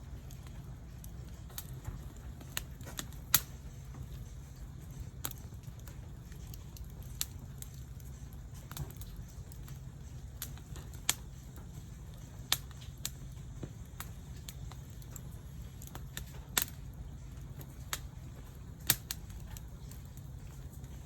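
Wood fire crackling, with sharp irregular pops every second or two, the loudest about three seconds in and near the end, over a low steady rumble.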